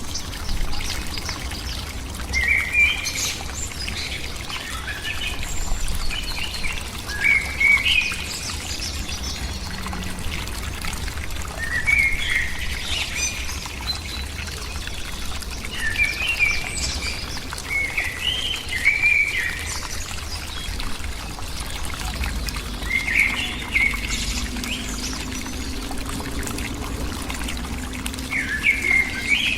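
A bird calling in short chirpy phrases, repeated every second or two, over a steady background hiss.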